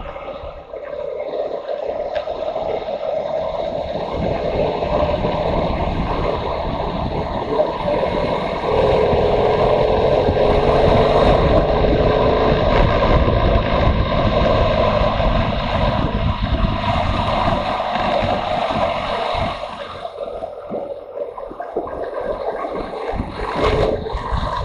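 Motorcycle engine running while riding, with wind rushing over the microphone. The engine grows louder about a third of the way in, holds, then eases off about four-fifths of the way through.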